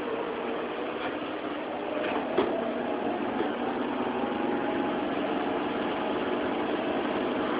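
Steady whir of a central air-conditioning blower together with bathroom exhaust fans, with a faint hum running through it. A brief click sounds about two and a half seconds in.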